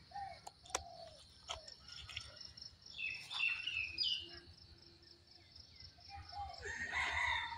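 Birds chirping and calling in short scattered notes, busiest around the middle and near the end, over a steady high pulsing trill.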